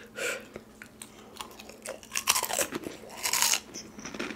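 Crispy Krunchy fried chicken being bitten and chewed, its crust crunching close to the microphone in several separate crunches about a second apart.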